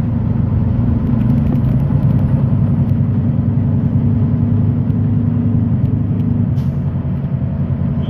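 Semi-truck's diesel engine and road noise heard from inside the cab while driving: a steady low drone.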